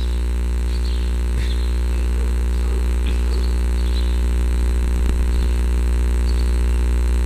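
Steady low electrical hum with a buzzy stack of evenly spaced overtones, unchanging throughout.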